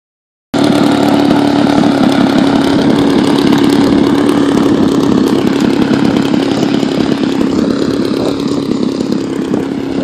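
Twin-cylinder two-stroke DA-120 gas engine of a large-scale RC Extra 300 running loudly at a steady pitch, easing slightly near the end.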